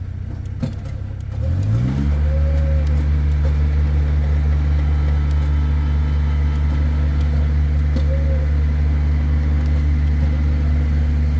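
Skid steer's engine starting up about a second and a half in, its pitch rising quickly as it catches, then running steadily over the low hum of another engine already idling.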